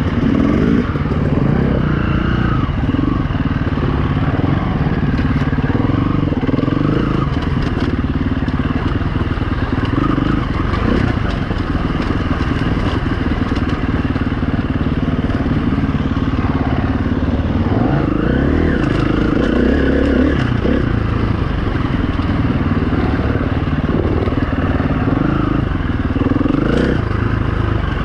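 2016 KTM 350 EXC-F dirt bike's single-cylinder four-stroke engine running while riding, its pitch rising and falling with the throttle.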